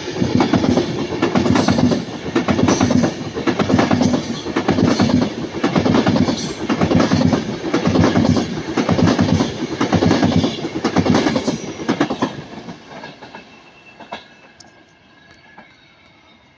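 Train passing close by, its wheels clattering over rail joints in a steady rhythm of about one beat every second and a bit, then fading away after about twelve seconds.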